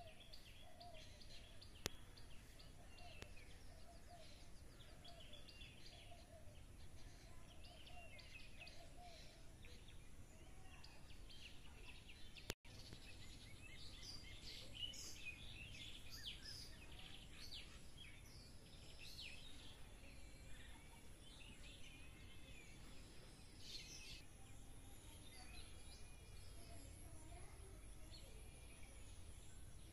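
Faint birdsong: small birds chirping and twittering over a quiet outdoor background, with a lower call repeated over and over during the first ten seconds or so. The sound cuts out for an instant about twelve seconds in.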